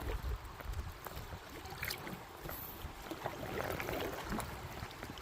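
River water washing and trickling around a fiberglass canoe as it moves downstream, with a low rumble underneath and a few light knocks, one about two seconds in.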